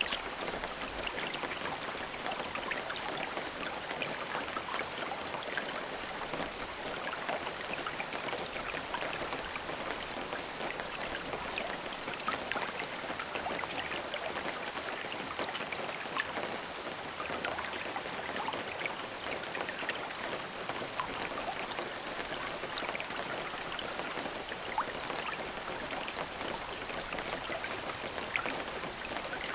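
Steady rain falling, an even hiss dotted with many small, crisp drop impacts.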